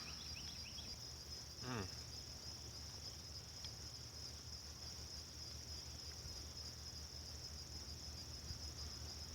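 Steady high-pitched chirring of a cricket chorus. A short, faint falling sound cuts in briefly near two seconds in.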